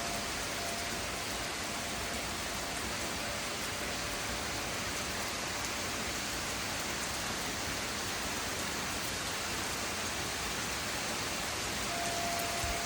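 Steady rain falling in a thunderstorm, an even hiss with faint scattered ticks of drops.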